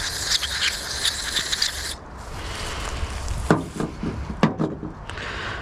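Aerosol carb cleaner hissing as it is sprayed into a carburetor's passages to flush out gunk, stopping about two seconds in. A few light knocks and clicks of the metal carburetor parts being handled follow.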